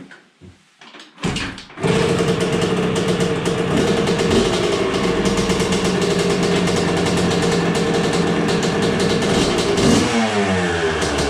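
1986 Honda CR 125's single-cylinder two-stroke engine kick-started: a few knocks, then it catches about a second or two in and runs steadily at a fast idle. Near the end the revs are blipped, rising and falling several times.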